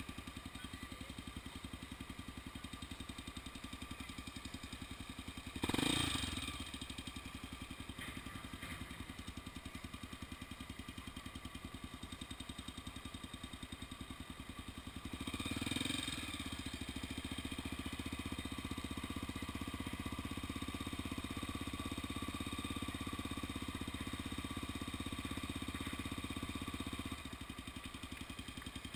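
Honda XR 250 Tornado's single-cylinder engine running steadily, with a brief louder burst about six seconds in and a louder, fuller stretch from about halfway through until near the end.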